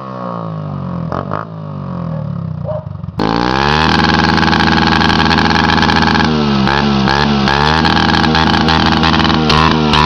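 Small-displacement motorcycle engine revving: the revs fall away for the first three seconds, then another bike is held at high revs against its rev limiter, the note stuttering as the limiter cuts in, faster near the end.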